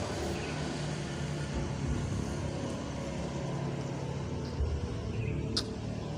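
A steady low engine-like hum, with a single sharp click about five and a half seconds in.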